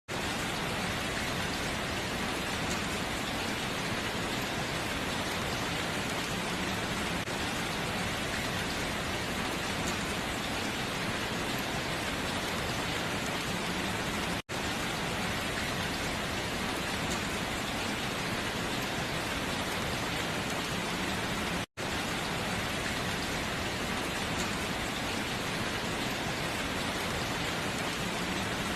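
Steady rain beating on window glass, an even hiss with no pauses except two momentary dropouts, about halfway through and about three quarters of the way in.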